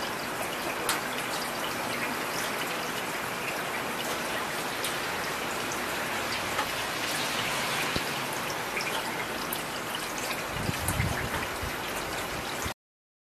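Steady rain with scattered drops spattering, and a brief low rumble near the end. The sound then cuts off abruptly into silence.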